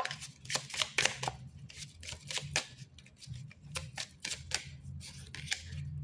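A deck of oracle cards being shuffled and handled by hand: a rapid run of crisp card snaps and flicks.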